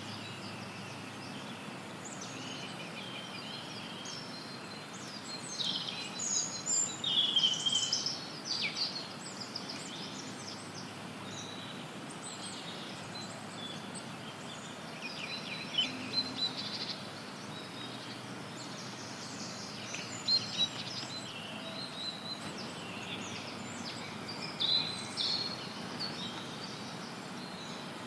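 Several songbirds chirping and trilling in short bursts over a steady hiss of added white noise, the calls clustering in a few busier patches.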